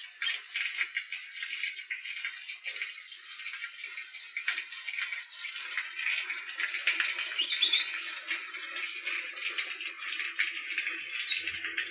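Water pouring from a garden hose, a steady splashing hiss.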